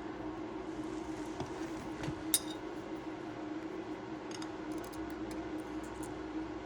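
Small metal parts being handled as bolts and a mounting plate are fitted by hand: one sharp clink about two seconds in, then a few light ticks, over a steady low hum.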